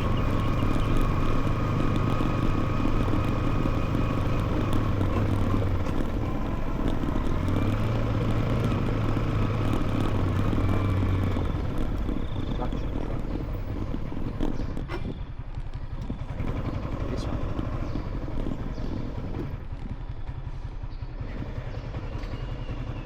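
Motorcycle engine running while being ridden, with road noise; about halfway through the engine note drops away and the sound grows quieter, as the bike slows.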